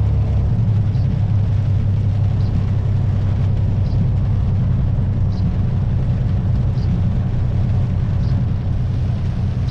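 Kenworth semi truck's diesel engine running steadily at low speed as the rig rolls slowly into a weigh station. A faint light tick repeats about every second and a half.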